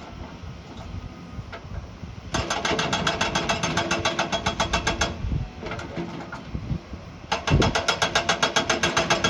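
A heavy construction machine's diesel engine running with a fast, even pulse, starting about two seconds in, breaking off for a couple of seconds midway and coming back.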